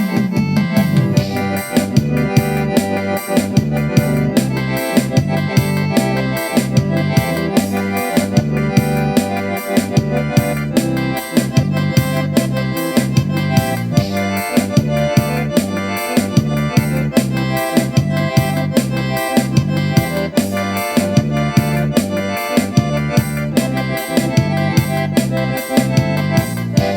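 Instrumental music with an accordion (sanfona) melody and keyboard over a steady, even beat.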